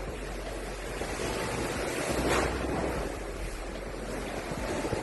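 Hurricane wind gusting hard, buffeting the microphone with a low rumble, with a stronger gust about two seconds in.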